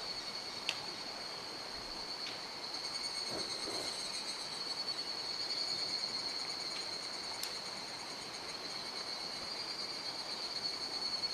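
Steady, high-pitched insect chirring over the even rush of a mountain stream, with a couple of sharp ticks.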